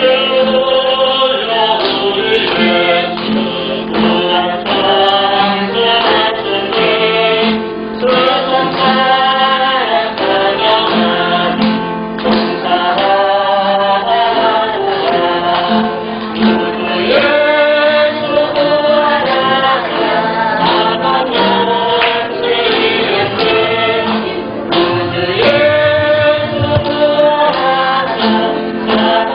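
A group of men and women singing a hymn together, holding long notes over a steady repeating low accompaniment.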